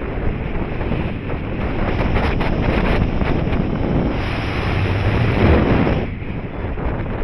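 Airflow buffeting the camera microphone of a paraglider in flight, a rushing wind noise that swells louder through the middle and drops off suddenly about six seconds in.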